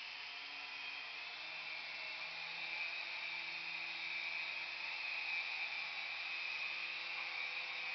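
Small electric motor and rotors of a toy remote-control helicopter running with a steady whine and hiss. The pitch rises over the first few seconds as the rotors spin up, then holds steady.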